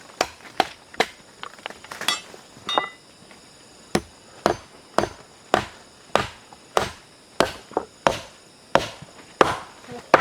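Repeated chopping blows on wood, about two a second, with a short pause about three seconds in.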